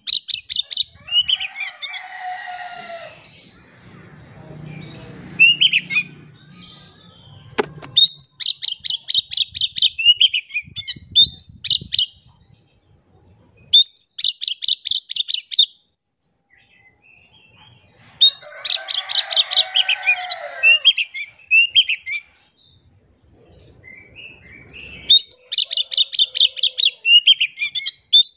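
Oriental magpie-robin singing: several bouts of fast, rapidly repeated high notes, with lower warbling phrases in between.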